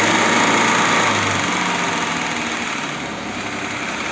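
Audi Q7 3.6 FSI VR6 engine running, a little louder for the first second and a half, then easing off. The engine has a warm-up knock that the mechanics trace to cam phasers that no longer lock.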